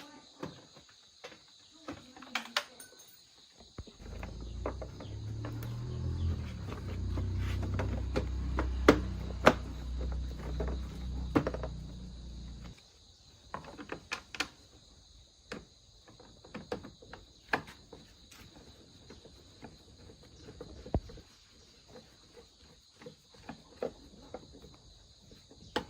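Small motorcycle engine starts about four seconds in, runs for roughly nine seconds with a slight rev, then cuts off suddenly. Scattered clicks and knocks come before and after it, over a steady high chirring of insects.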